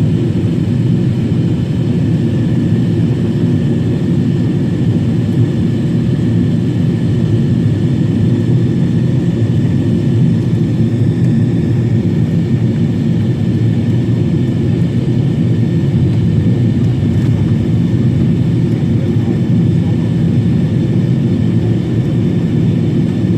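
Steady cabin noise inside a Boeing 777-300 on its descent: a deep, even rush of jet engines and airflow, with a few faint steady high tones above it.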